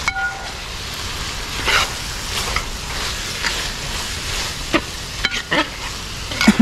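Beef heart pieces sizzling in a thick, heavy uruli as they are stirred through a ground-pepper masala. A utensil scrapes against the vessel every second or so over a steady frying hiss.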